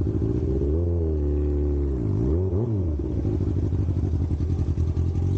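Sport motorcycle engine running. Its pitch drops and climbs back sharply about two seconds in, then it holds a steady, rapidly pulsing note.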